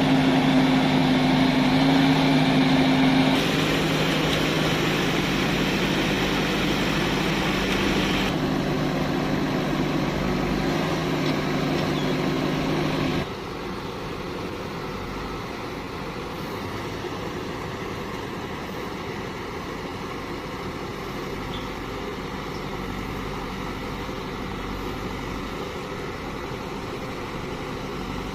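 Heavy diesel engine running steadily with a low hum, then dropping suddenly to a quieter idle about halfway through.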